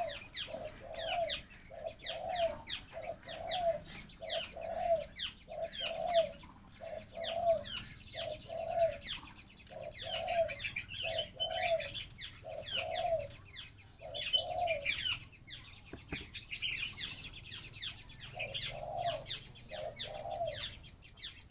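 Birds calling: one low note repeated steadily about every two-thirds of a second, breaking off for a few seconds late on, over a dense chatter of quick high chirps.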